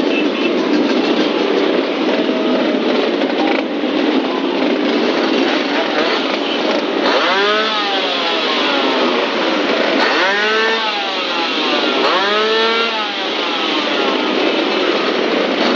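An old engine running loudly and steadily. In the second half a whining tone rises and falls three times, about two to three seconds apart.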